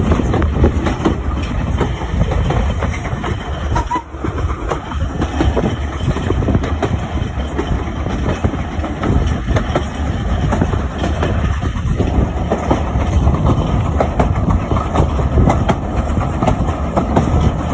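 Steam-hauled heritage train on the move, heard from an open carriage window: a steady rumble of the wheels on the track, dotted with many short clicks.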